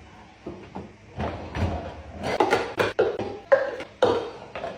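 A quick run of knocks and clatters, each with a short ring, coming thicker from about a second in.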